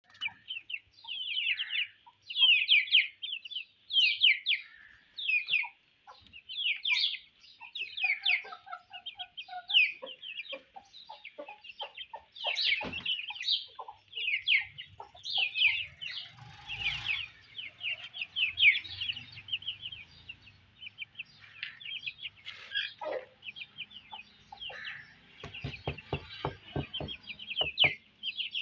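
Birds chirping rapidly and without pause in short, high-pitched notes, with a few lower clucking notes and a run of soft knocks near the end.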